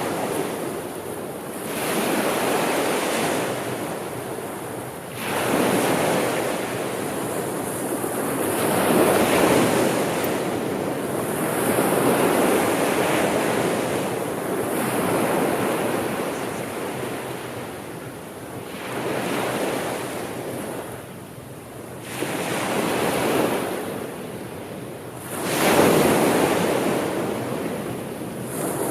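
Sea waves washing ashore, the rush of surf swelling and falling back every three to four seconds.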